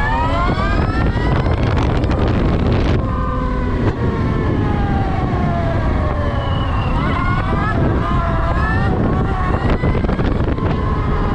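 Electric dirt bike's motor whining at speed, its pitch climbing for the first few seconds, then falling and climbing again, over a steady low rumble.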